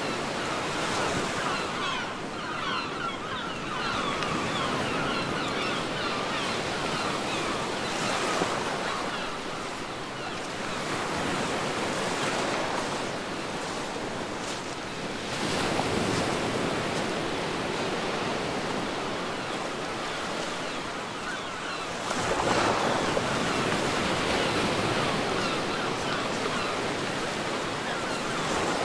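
Ocean surf breaking and washing up a beach in repeated swells, with the hiss of foam. The loudest wave breaks about three-quarters of the way through.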